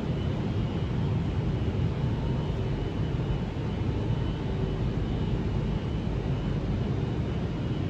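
Steady low rumble of railway station background noise, with a faint steady whine.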